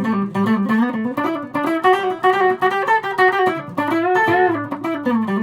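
Electric guitar on a custom multi-pickup Stratocaster, playing a quick single-note lick with a note bend about four seconds in. The pickups are wired in series and in phase, a humbucking combination.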